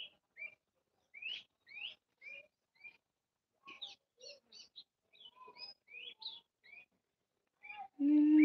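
Small birds chirping: short, high calls, a few each second, some of them rising. Near the end a much louder, steady pitched call cuts in.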